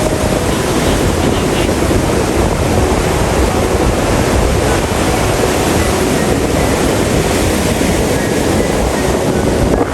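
Ocean surf washing onto the beach: a steady, unbroken wash of breaking waves.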